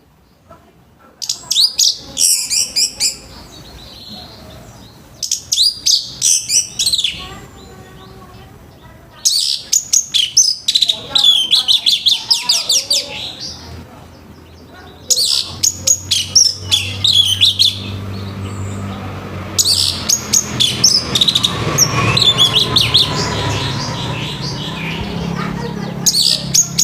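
Orange-headed thrush singing its loud full song in rough-toned phrases of rapid, high chattering notes, five bursts a few seconds apart, the last ones longer.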